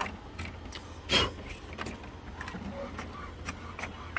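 HP OfficeJet Pro 8710 inkjet printer printing a test page: a steady low motor hum with scattered clicks from the print carriage and paper feed, and one louder short sound about a second in.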